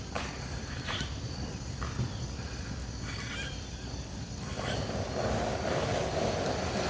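Hamburgers and onions sizzling in a skillet over a campfire, with scattered sharp crackles. About two-thirds of the way through, a steadier, denser rushing noise comes in and carries on.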